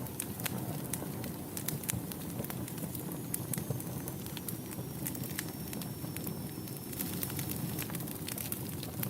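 Wood fire crackling in a fireplace: a steady low rumble of flames with frequent irregular sharp pops and snaps. In the middle a faint high whistle slides slightly lower for a few seconds.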